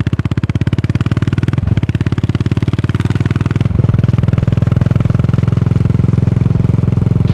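Yamaha SR400 single-cylinder four-stroke running through a Goods tapered-cone slip-on muffler, a fast, even exhaust beat. Two short breaks in the beat about one and a half and four seconds in, after which it comes back louder.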